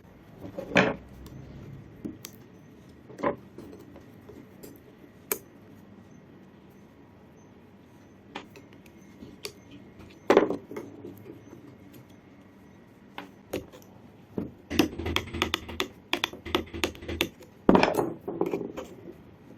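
Metal tools and hammer parts handled and set down on a hard work surface: sharp single knocks about a second in and about ten seconds in, a few light ticks between, then a busier run of clattering near the end.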